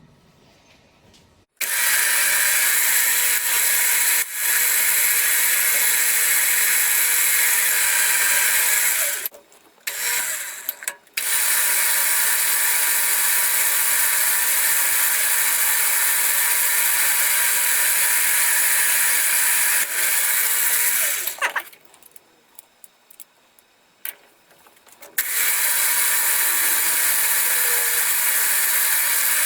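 Milling machine spindle running steadily while holes are spot-drilled and drilled undersize in small metal blocks, with a constant hum carrying a couple of steady tones. It cuts off abruptly twice, for a couple of seconds and then for a few seconds, and starts again each time.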